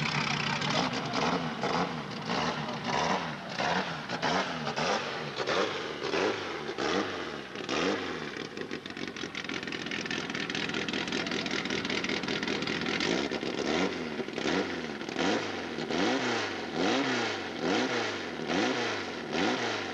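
A racing car's engine being revved in repeated blips while waiting for the start, its pitch rising and falling about one to two times a second. It settles to a steadier run for a few seconds near the middle, then the blips resume.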